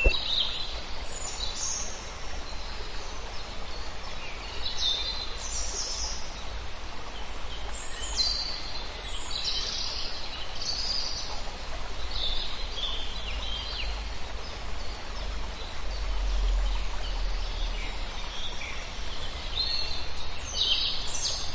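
Small birds chirping with short high calls, scattered through and bunched near the end, over a steady outdoor background hiss and low rumble.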